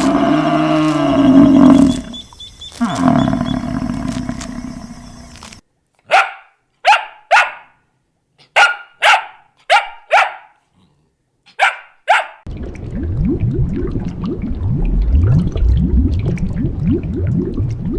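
A run of short animal-sound clips. First a drawn-out, wavering animal call. Then a dog barking about nine times at uneven spacing, and then a low, rough rumbling call.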